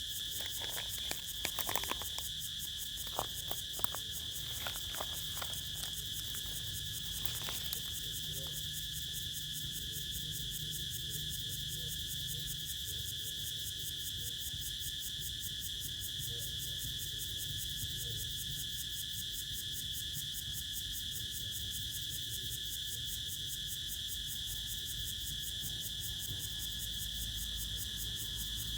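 Crickets chirping in a steady, continuous high pulsing chorus. A few short sharp clicks in the first eight seconds.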